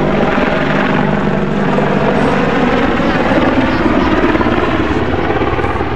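Army Air Corps Apache AH1 attack helicopter flying close by, its rotor and turbine engines loud and steady, easing slightly near the end.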